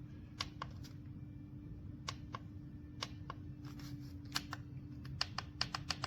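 Irregular light clicks, some in quick clusters toward the end, over a steady low electrical hum.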